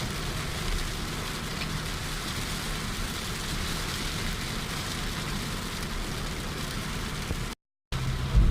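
Steady heavy rain falling, an even hiss. The sound drops out briefly near the end and comes back with a louder low rumble.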